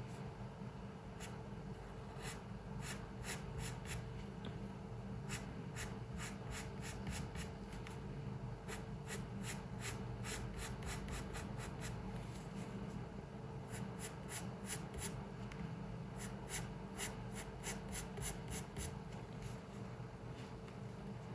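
Quick, short strokes of a drawing tool scratching on paper. They come in runs of several strokes with brief pauses between, over a steady faint hum of room noise.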